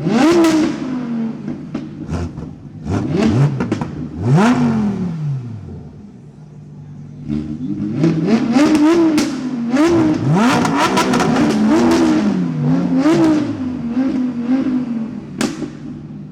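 Car engine revved in repeated sharp blips, the pitch jumping up and falling back each time over a steady idle. There is a lull around the middle, then a quick run of revs near the end.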